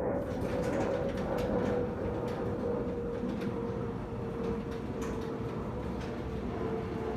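Steady mechanical rumble with a high whine that slowly drops in pitch and scattered light clicks, like a running vehicle or motor.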